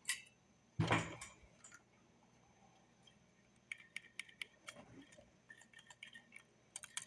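Small metal parts and tools clinking and tapping as they are handled, a loose run of sharp clinks from about four seconds in. A single duller knock about a second in.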